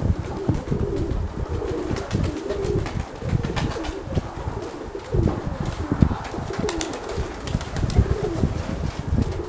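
Domestic pigeons cooing over and over, with gusty wind buffeting the microphone.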